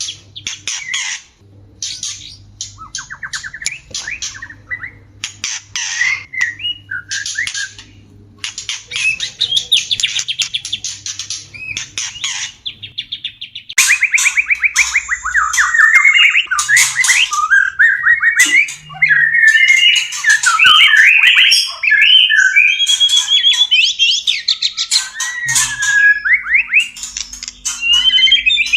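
White-rumped shama (murai batu) courtship calls: harsh, rasping calls mixed with quick trills, then from about halfway a louder run of fast, varied whistled song.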